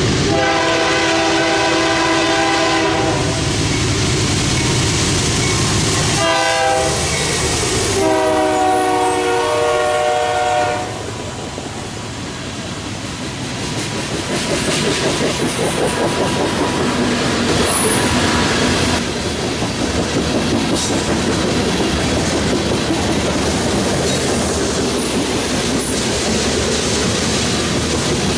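A BNSF freight locomotive's air horn sounds several notes at once in a long blast, a short one and another long one. It is the crossing warning as the grain train approaches. The locomotive and loaded grain cars then roll past with a steady rumble and wheel clatter on the rails, growing louder from about halfway through.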